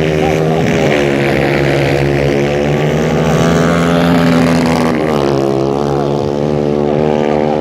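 Several 150cc dirt-track racing motorcycle engines running hard at once, their pitches rising and falling as the riders rev, shift and pass.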